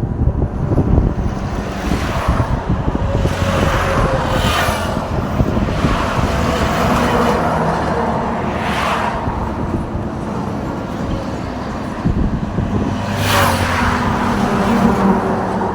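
Road traffic with heavy engines running. Several vehicles pass, each a swelling and fading whoosh, about four in all, with one near the end.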